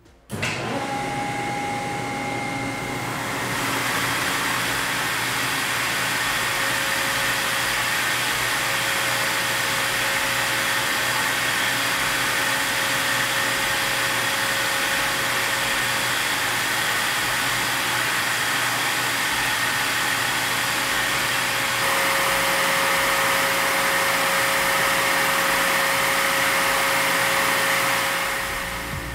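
A Sullair 50 HP air-cooled rotary screw air compressor running: a steady mechanical whine over a loud rushing noise. It gets louder about three seconds in.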